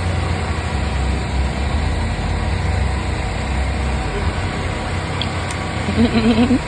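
Steady low engine hum with outdoor background noise, and a brief high voice near the end.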